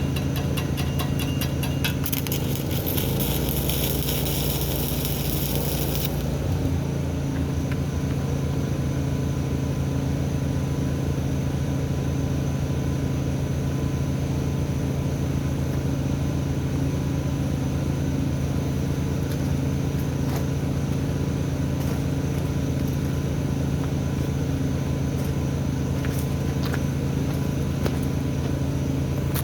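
Stick-welding arc crackling and hissing for about four seconds, starting about two seconds in, over a steady low hum. An underpowered supply cord is making the welder hard to tack with.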